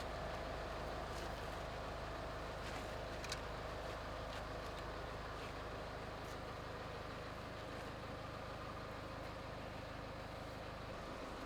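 An engine running steadily at a constant pitch, with a few faint clicks and one sharper tick about three seconds in.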